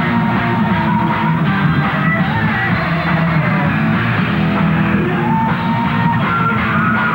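A rock band playing live, heard through a rough, muffled recording.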